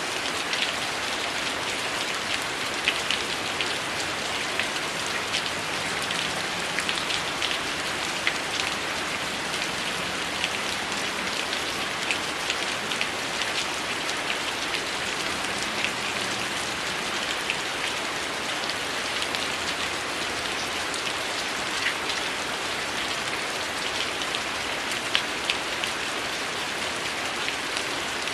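Heavy rain falling steadily, with a wood fire crackling through it in frequent small sharp pops.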